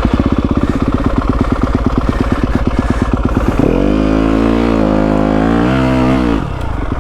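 Yamaha WR250F's single-cylinder four-stroke engine running at low revs with a fast, even pulse. About three and a half seconds in it is revved up sharply and held high for a couple of seconds, then drops back to low revs near the end.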